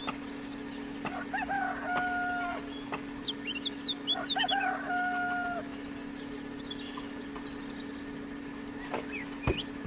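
A bird calls twice, each call drawn out and ending on a held note, with quick high chirps in between, over a steady low hum. There is a single knock near the end.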